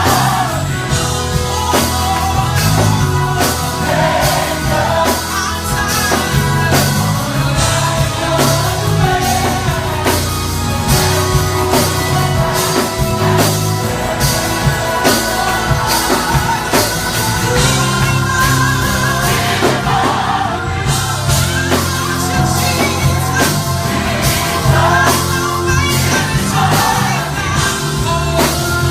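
Gospel choir singing with a live band: bass, drums and keyboard keep a steady beat.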